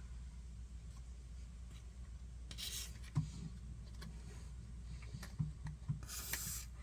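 Faint rubbing and scraping with a few light clicks, over a low steady hum: parts and tools being handled under the car.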